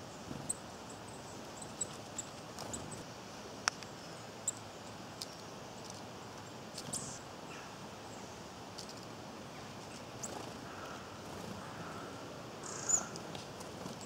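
Outdoor ambience with a steady hiss and scattered short, high-pitched chips and ticks from small birds, a sharper tick about three and a half seconds in and the loudest call near the end.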